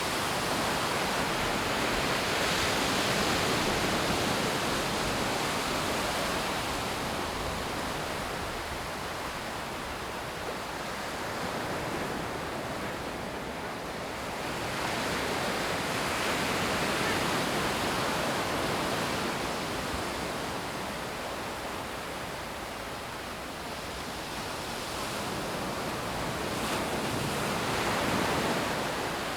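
Sea surf breaking on a beach: a steady wash of waves that swells and eases every several seconds.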